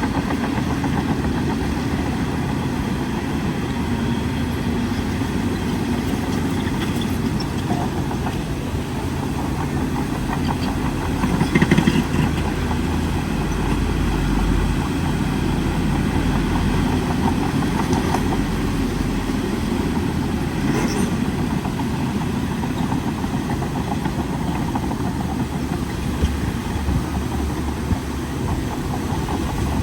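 Heavy diesel engine of a bulldozer running steadily while pushing soil, with a brief louder surge about twelve seconds in.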